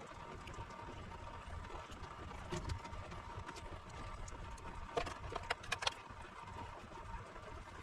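Small clicks and taps of hands and tools handling parts at a workbench, during the fitting of replacement parts to an inverter, over a low steady hum. A quick run of sharper clicks comes about five seconds in.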